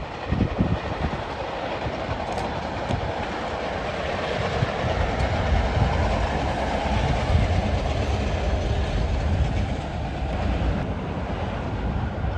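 Commuter train running past on the line, a steady rumble of wheels on rails that swells a little midway.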